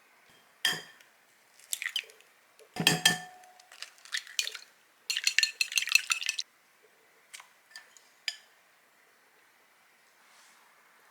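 Cookware and tableware being handled: a few sharp clinks and knocks with a short metallic ring, then a quick run of rattling clinks about five seconds in, and a few lighter taps near the end.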